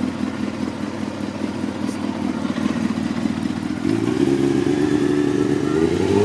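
Honda CBR954RR's inline-four engine idling through racing headers and a racing exhaust, with a fast, even beat. About four seconds in the idle rises a little and holds at the higher speed.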